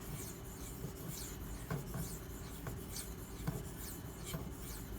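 Maxamet steel knife blade stroked back and forth on a 1000-grit Nano Hone sharpening stone wet with a little slurry: a soft, repeated scrape, about two strokes a second. The stone feels super slick and is burnishing and polishing the steel rather than cutting it.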